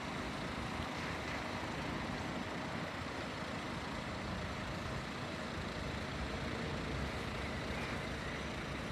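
Steady background noise of road traffic on a town street, with no single distinct event.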